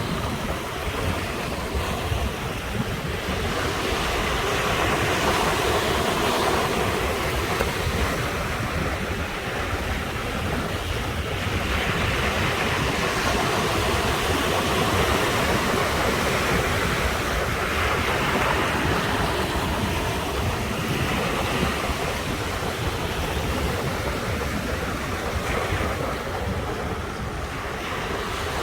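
Ocean surf breaking and washing ashore in a continuous rush, swelling louder every several seconds as each wave comes in.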